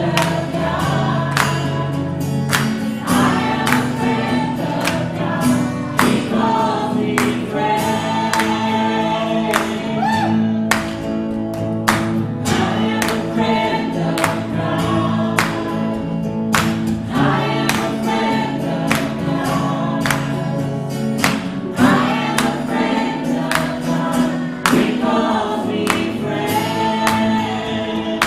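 Live congregational worship music: a choir and congregation singing a gospel praise song over a band with a steady beat.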